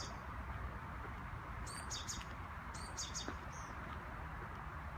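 Small birds chirping: short high calls in two brief clusters, about two and three seconds in, over a steady outdoor background hiss.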